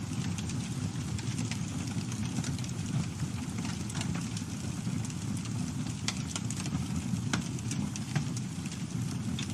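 Campfire burning: a steady low rush of flames with frequent small crackles and a few sharper pops of burning wood.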